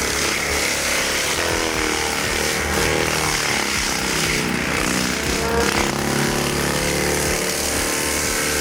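A motor-driven machine running, its pitch sliding up and down as it works.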